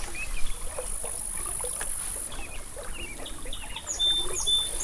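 Stream water trickling and sloshing, with short high chirps scattered throughout and a brief steady high tone near the end.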